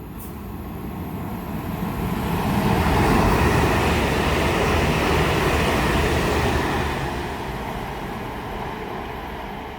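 Pair of Class 350 electric multiple units passing through at speed. The steady rush of wheels and air swells to a peak about three seconds in, holds, then fades away over the last few seconds.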